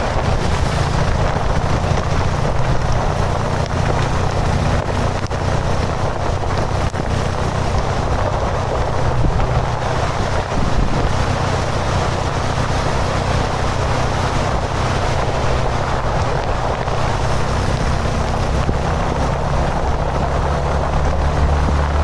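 Motorcycle engine running steadily while riding, with heavy wind rushing over the microphone. The engine's low hum strengthens a little near the end.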